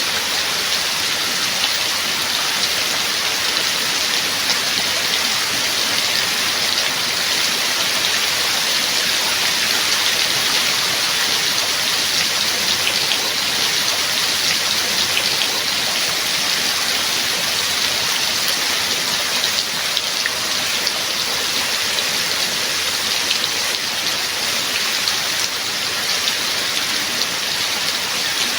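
Steady rain falling: a dense, even hiss dotted with fine individual drop ticks.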